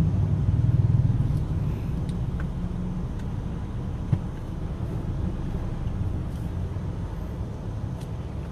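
Low, steady car engine and road rumble, louder and throbbing for the first second or so, then settling. A single sharp click about four seconds in.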